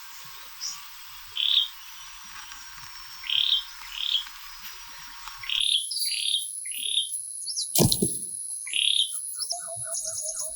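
Short, repeated chirping calls from birds. About three-quarters of the way through there is a single sharp knock, and near the end a rapid, evenly repeated lower note.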